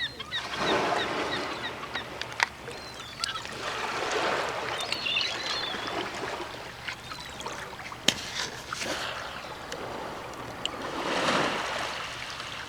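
Small ocean waves washing over a rocky shore, swelling and receding every few seconds, with a couple of sharp clicks and brief bird chirps about four to five seconds in.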